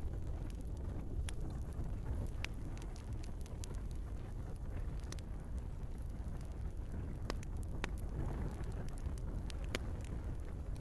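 Wood fire burning in a fireplace: a steady low roar of flames with scattered sharp crackles and pops from the logs, a dozen or so in ten seconds.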